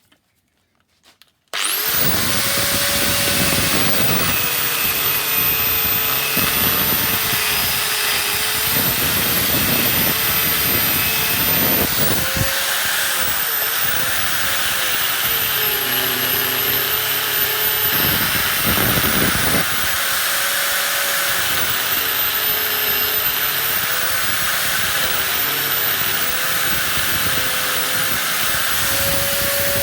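Angle grinder starting up about a second and a half in, then running steadily as it cuts into a seized CV joint on the drive shaft. Its pitch dips and recovers over and over as the disc is pressed into the steel.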